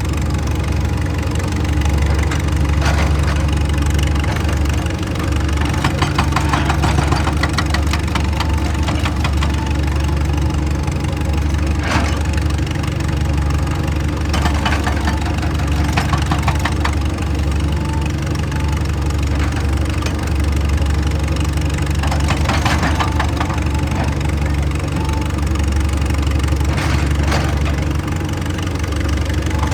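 Excavator engine running steadily, its low hum rising and easing in stretches as the machine works, with intermittent knocks and scrapes every few seconds.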